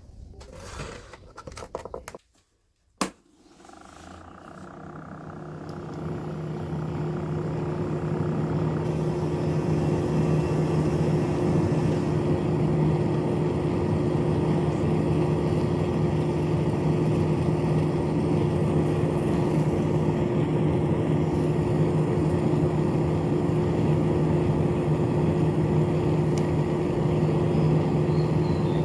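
Small battery-powered electric motor in a homemade cardboard build, starting after a sharp click about three seconds in. It builds up over several seconds to a steady hum and keeps running evenly. A few handling clicks come before it.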